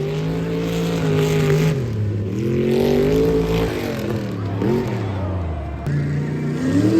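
Truck engine revving hard and repeatedly, surging up and dropping back several times, as on a tough truck obstacle course.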